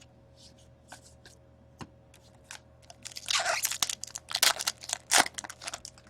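Packaging crinkling and crackling as trading cards are handled. A few light clicks come first, then a burst of crinkling about three seconds in and several louder crackles toward the end.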